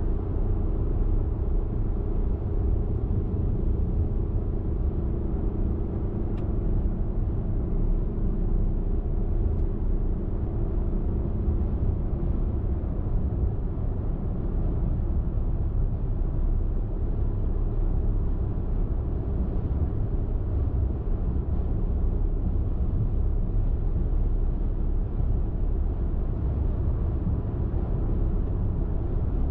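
Car driving at road speed: a steady low rumble of tyres on the road and the engine.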